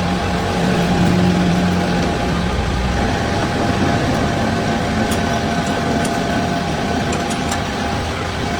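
A machine starts abruptly and runs steadily with a constant hum and whine.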